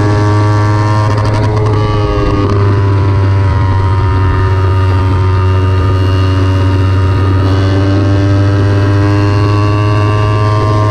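Kawasaki Ninja 300's parallel-twin engine running hard at high revs on track. The engine note dips briefly about two seconds in, then holds high.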